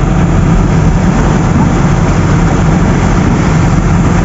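Truck's diesel engine running steadily, heard from inside the cab, over the hiss of rain and water.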